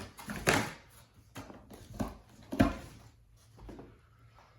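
Packaging and prop parts being handled during unboxing: a run of irregular rustles and knocks, loudest about half a second in and again about two and a half seconds in.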